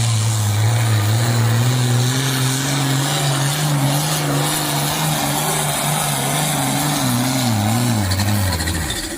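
Competition pulling vehicle's engine running loud and hard under load, its note holding roughly steady and wavering, then dropping away about eight seconds in.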